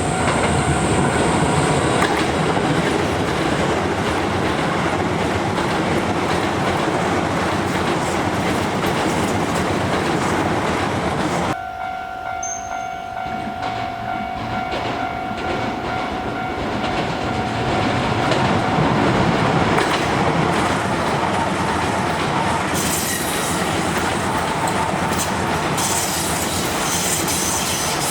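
Electric commuter trains passing at close range, wheels clacking over rail joints. The sound changes abruptly about a third of the way in, after which a Keisei 3100-series train runs past.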